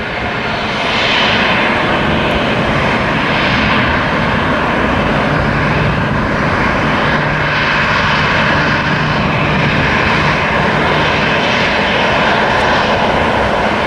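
Boeing 737 jet engines at takeoff power during its departure roll and climb-out: a loud, steady roar that swells in the first second and then holds, with a low hum underneath.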